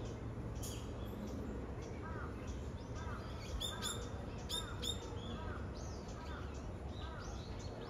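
Small birds chirping: a string of short, repeated chirps, with a few sharper, higher calls near the middle, over a steady low outdoor background noise.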